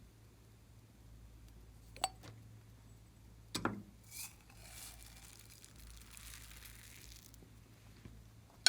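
Small objects being handled during slime making: a click about two seconds in, a short clatter of clicks, then about three seconds of soft crinkling, and a sharp click at the very end.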